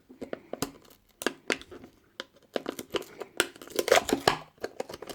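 Plastic packaging being peeled open and crinkled by hand: irregular sharp crackles and tearing sounds, sparse at first and busier in the second half.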